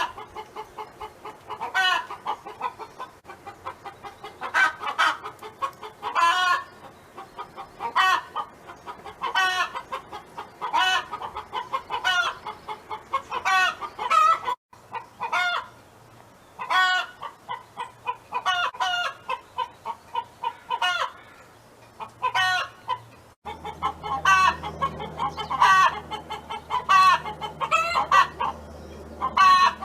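Domestic hens clucking and calling: a steady series of short repeated calls, grouped in runs. The recording breaks off abruptly twice, with a low hum changing at each break.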